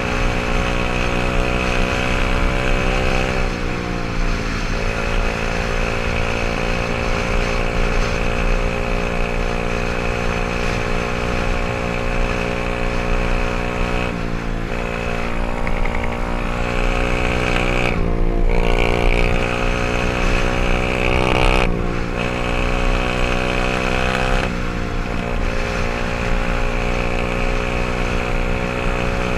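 124cc pit bike's single-cylinder engine running through its exhaust at a fairly steady speed, the revs dipping and picking back up about five times.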